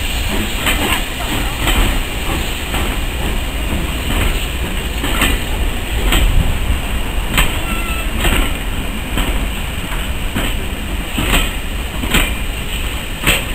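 A train of passenger coaches rolling slowly past, the wheels clicking irregularly over rail joints above a steady low rumble.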